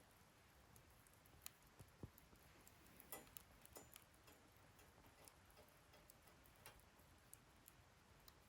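Wood fire in a fire-pit stand crackling faintly, with scattered sharp pops and ticks at irregular intervals.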